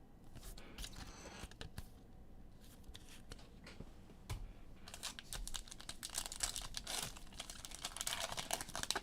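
Trading-card pack wrapper crinkling and tearing as a pack is torn open, with the cards handled. There are sparse crackles at first, then denser crinkling from about halfway through.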